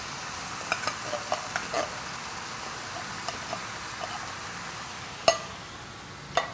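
Vegetables frying with a steady sizzle in a saucepan as tinned chickpeas are tipped in on top of lentils and red beans, with scattered soft clicks and patters in the first two seconds. Two sharp knocks come near the end as the tin is emptied over the pan.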